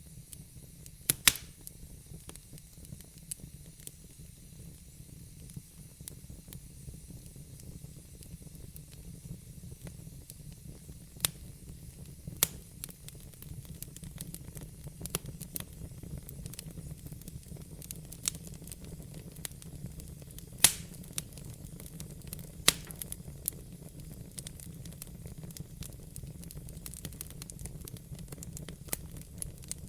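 Wood fire burning in a fireplace: a steady low rumble and hiss, with sharp pops and crackles at irregular moments, the loudest a little after the start, twice around the middle and twice in the third quarter.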